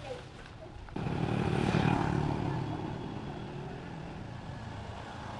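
A vehicle running past, starting abruptly about a second in, loudest about two seconds in, then slowly fading.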